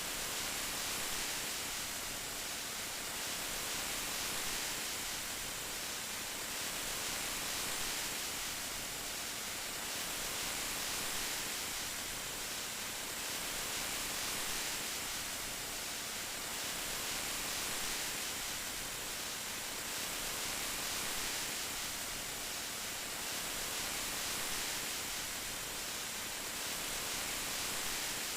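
Steady rain, an even hiss with gentle swells every few seconds.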